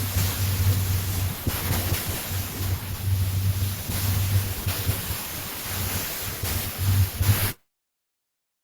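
Wind buffeting a camera microphone in uneven gusts of low rumble over a steady hiss, cutting off suddenly near the end.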